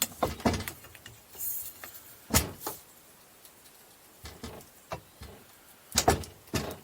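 Scattered metal clanks and clicks of hand tools and parts being handled, with the loudest knocks about two and a half seconds in and around six seconds in.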